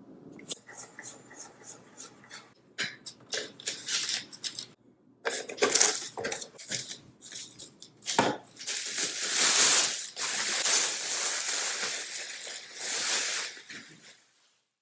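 Kitchen food-preparation sounds: a run of sharp clicks and knocks, like utensils against dishes, then about five seconds of dense scraping and rustling that stops just before the end.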